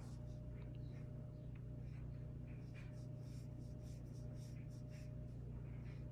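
Faint scratchy strokes of a watercolour brush on paper, coming and going, over a steady low electrical hum.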